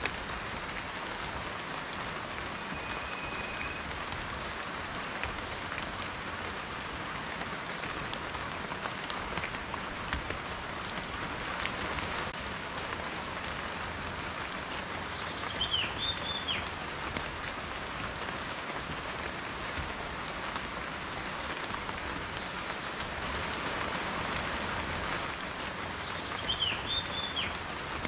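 Steady rain falling, with a dense patter of individual drops. A bird chirps briefly twice, about halfway through and again near the end.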